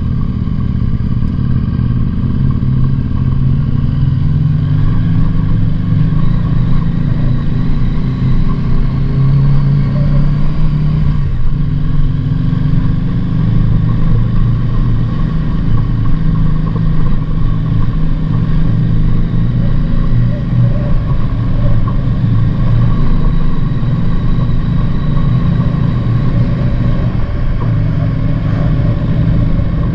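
Motorcycle engine running steadily while riding, its note shifting slightly up and down.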